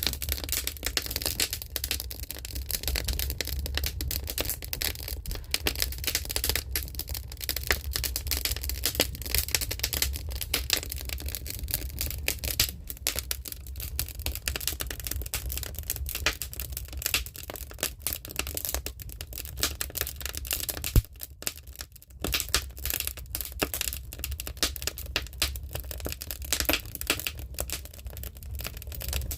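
Fire in a fireplace crackling and popping continuously over a steady low rumble, with one sharp loud pop about twenty seconds in.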